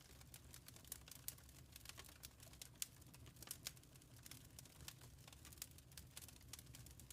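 Wood fire crackling faintly, with irregular sharp pops and snaps over a soft low background noise.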